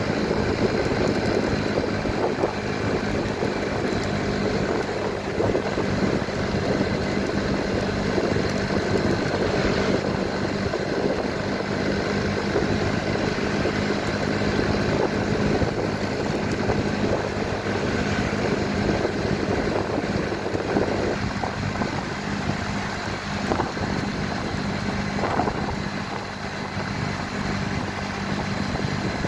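Motorcycle engine running steadily on the move, with a constant hum and a rushing noise from the ride.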